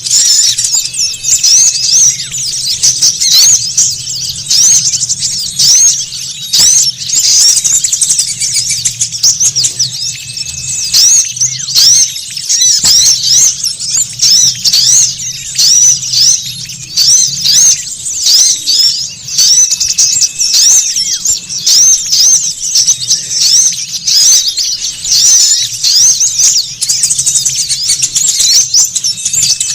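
Dense, unbroken twittering of many small songbirds: rapid high-pitched chirps and trills overlapping one another, as in a bird-lure recording of small birds calling noisily. A faint low hum runs underneath.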